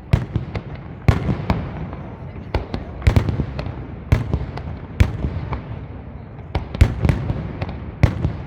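Aerial fireworks display: a rapid, irregular barrage of shell bursts and bangs, several a second, over a continuous rumbling crackle.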